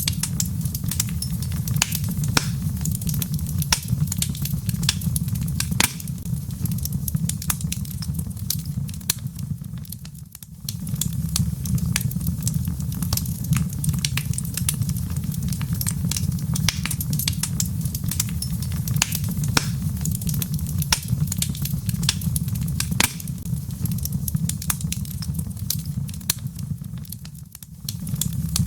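Wood logs burning in a fireplace: a steady low rumble of the flames with frequent sharp crackles and pops from the wood. The rumble dips briefly twice, about ten seconds in and again near the end.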